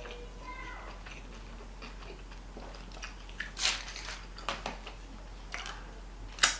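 A person chewing and biting food close to the microphone, with a few sharp moist clicks and crunches: the strongest about halfway through and another just before the end.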